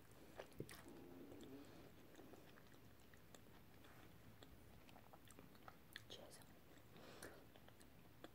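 Faint chewing of food, with scattered light clicks of a metal knife and fork against a ceramic plate.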